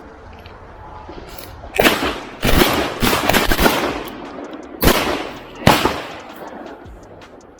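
A volley of shotgun shots at ducks: two blasts, then several in quick succession, then two more spaced out, each with a rolling echo. Waterfowl hunters firing at flying ducks, one of which is downed.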